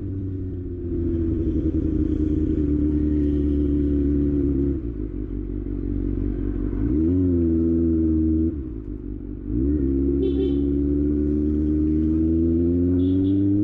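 Kawasaki ZX6R inline-four engine running, its pitch mostly steady. It dips twice as the throttle eases, with a quick rise and fall at about seven seconds, and climbs slowly near the end.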